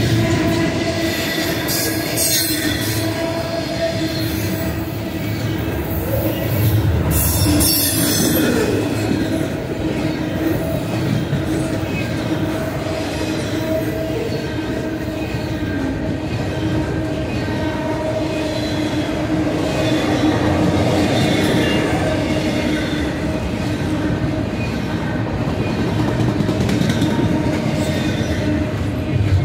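Double-stack container freight train cars rolling past, a steady rumble of steel wheels on rail with a sustained tone running through it. A couple of brief, sharper noises come about two and seven seconds in.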